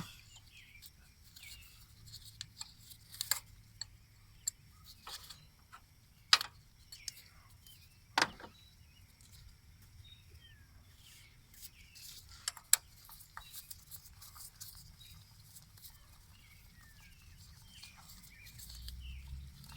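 Scattered sharp clicks and taps of a hand tool on metal while the screws holding a purge valve are worked loose, the loudest about six, eight and twelve seconds in. Faint bird chirps sound in the background.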